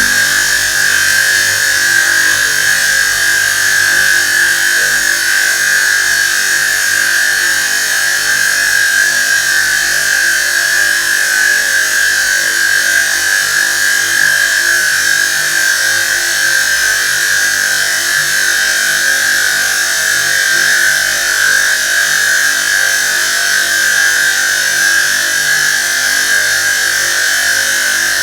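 Water noise passed through a voice-changer effect: a loud, steady hiss with a strong, even ringing tone in the middle, unbroken throughout.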